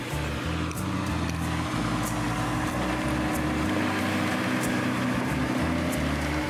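Old Land Rover Series engine running as the vehicle drives over grass, mixed with background music that has a slow, even beat.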